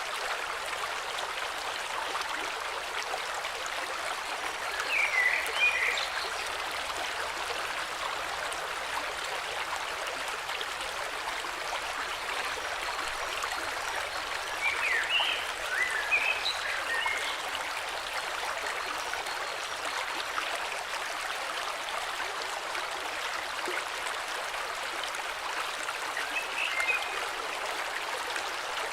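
Flowing river running steadily, with short bursts of birdsong chirps three times: about five seconds in, around the middle, and near the end.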